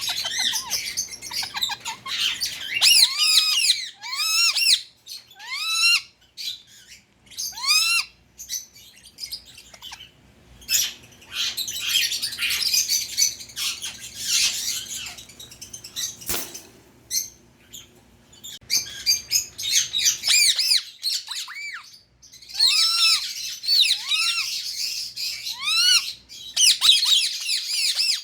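Indian ring-necked parakeet squawking and screeching in bouts of short, sharp calls that rise and fall in pitch, with quieter pauses between the bouts.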